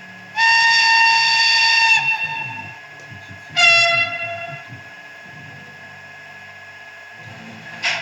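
Sound module of a model FS ALe 840 electric railcar playing its horn: a long blast of about a second and a half, then a shorter, lower-pitched blast about three seconds later. A sharp click comes near the end.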